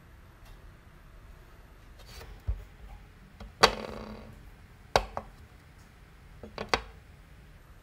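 Clicks and knocks of a small plastic pill bottle being opened and handled, its cap and then the bottle set down on a glass tabletop. The loudest knock, about halfway through, rings briefly; two quick knocks follow about a second later and two more near the end.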